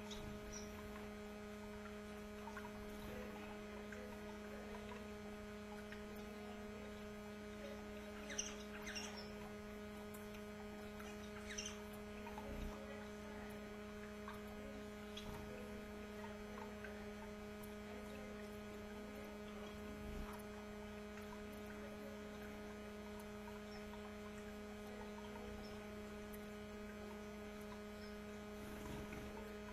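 A steady electrical hum runs throughout. A few faint canary chirps come about eight and twelve seconds in.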